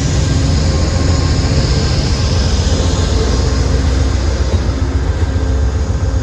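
A train passing close by: a diesel locomotive's engine and steel wheels rolling on the rails, making a loud, steady rumble.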